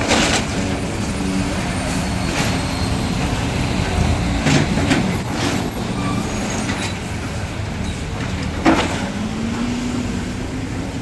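Busy street traffic: heavy vehicle engines running and passing, with several short sharp sounds over the steady rumble and an engine pulling away near the end.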